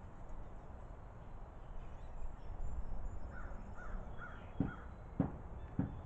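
Crows cawing: a run of four faint caws about three seconds in, followed by three short, louder sounds about half a second apart near the end.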